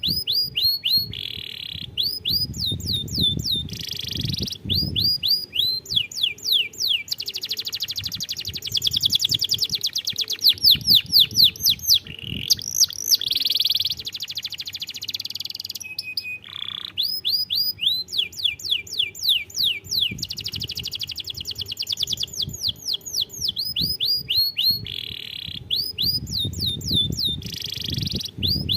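Domestic canary singing continuously: long runs of rapidly repeated falling whistle notes and rolling trills, phrase after phrase with short breaks, over a faint low rumble at times.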